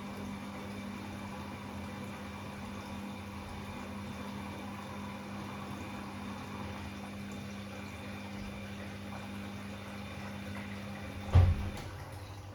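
Bosch Classixx 6 washing machine taking in water for its first rinse: steady water inflow with a low hum. About eleven and a half seconds in, a loud thump comes as the hum stops.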